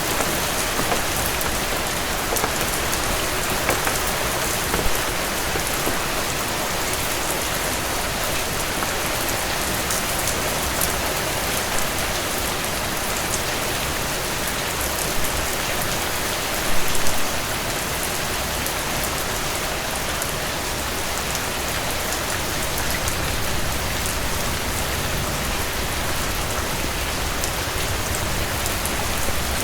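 Heavy rain falling steadily on a cabin porch, a dense even hiss with many sharp drop ticks, and a brief louder clatter a little past halfway through.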